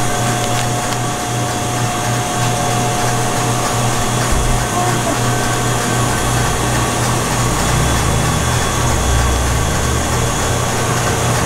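Steady whirring of a small electric motor with a constant hum, a deeper rumble joining in about halfway through.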